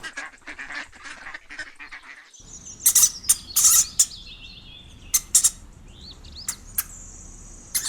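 Ducks quacking in a dense run of short calls. About two and a half seconds in the sound changes abruptly to sparser, sharp high chirps and short whistling calls.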